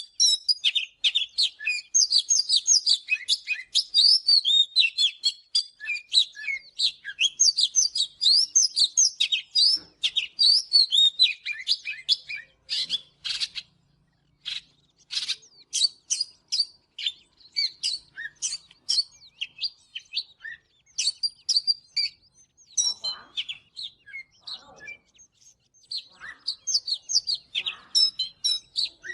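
Oriental magpie-robin singing a rapid, varied song of whistled and chirping notes. Around halfway through it breaks into a series of short, sharp, separated notes, then returns to fuller warbling near the end.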